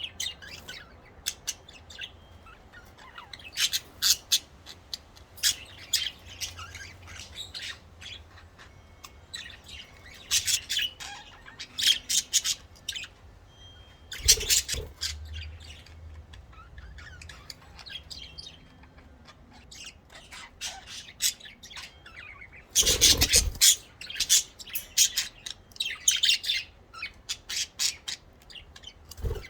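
Pet budgerigars chirping and chattering in scattered bursts of short, high chirps and squawks. Two louder knocks or rattles come partway through, the loudest about three quarters of the way in.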